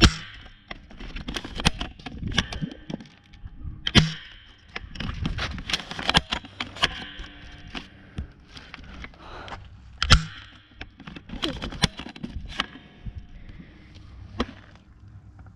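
Scattered sharp cracks and knocks over a rustling background as players move and shoot in an airsoft game. The loudest knocks fall at the start, about four seconds in and about ten seconds in.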